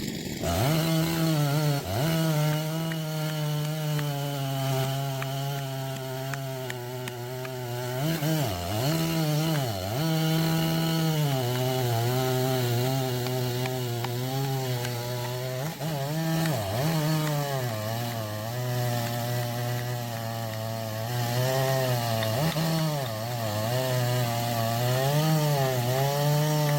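Chainsaw engine running at high revs while cutting through wood, its note dipping and recovering several times as the chain loads up in the cut.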